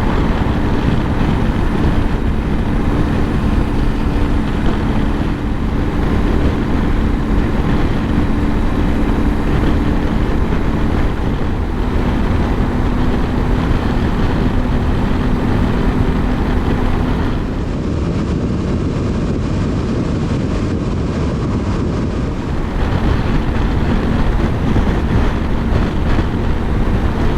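Yamaha Ténéré 700's 689 cc parallel-twin engine running at a steady highway cruise, its hum under a constant rush of wind over the rider's helmet camera. The rush dulls for a few seconds about two-thirds through, then returns.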